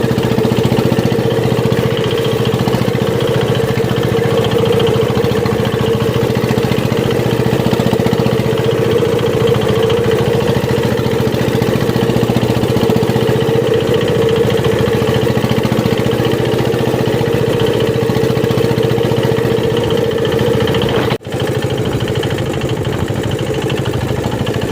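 Small boat's engine running steadily under way, with a momentary break about twenty seconds in.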